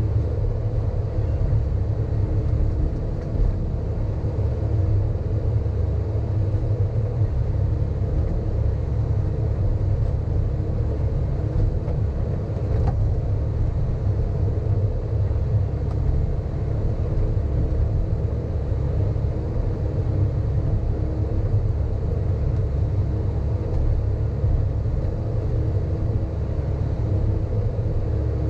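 A Sany hydraulic excavator's diesel engine running steadily under work, a continuous low rumble with a steady droning note over it.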